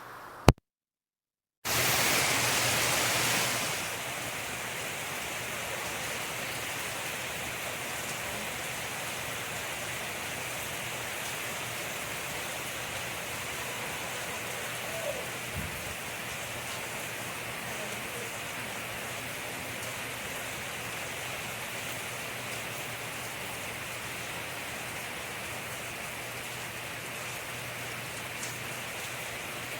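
Steady rain falling, an even hiss. Near the start there is a sharp click and about a second of dead silence. The rain then comes in louder for about two seconds before settling to an even level.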